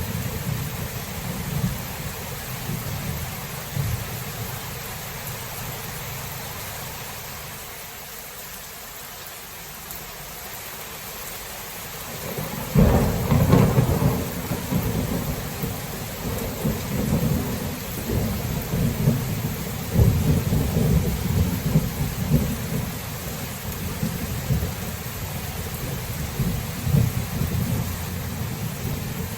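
Thunderstorm: steady heavy rain with rolling thunder. The rumble fades for a few seconds, then a loud thunderclap breaks about halfway through and rolls on in repeated rumbles.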